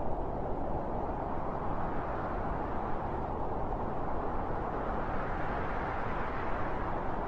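Strong wind blowing, a steady low rushing that swells a little a few seconds in.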